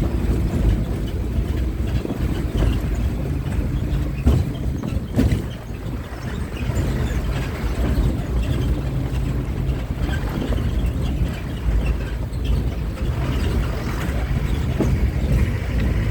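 Bus driving along a road: a steady low engine and road rumble with wind buffeting the microphone, and a couple of short knocks about four and five seconds in.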